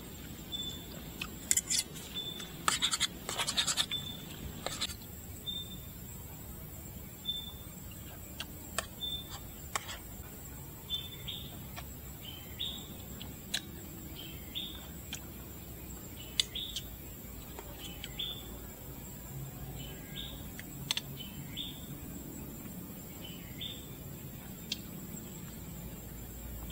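Bird chirping repeatedly in short high chirps, spaced about a second apart at first and later in quick falling pairs. Bursts of scratching and sharp clicks come about two to five seconds in, with single clicks scattered after.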